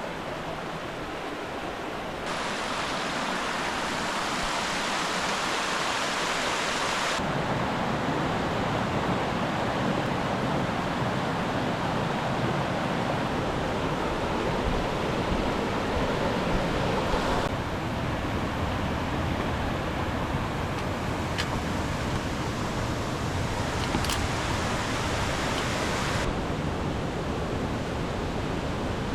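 Steady rush of flowing water, a dense even noise whose tone shifts abruptly several times as the sound jumps between takes.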